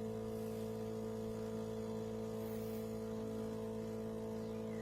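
De'Longhi Rivelia espresso machine's pump running with a steady hum while it pours an extra measure of coffee into the cup.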